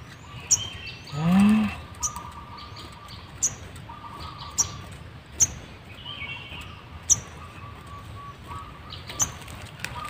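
Small songbirds calling: sharp, high single chirps repeating irregularly about once a second, over a steady wavering trill. A short, low rising hum about a second in.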